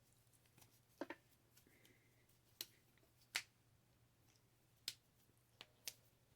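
Faint, sharp clicks and taps from handling a scratch-off lottery ticket: about seven at uneven intervals, the loudest a little past three seconds in.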